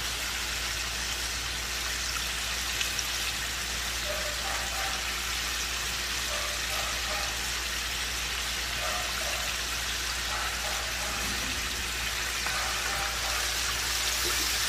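Chicken pieces deep-frying in hot oil in a large pot, a steady, even sizzle.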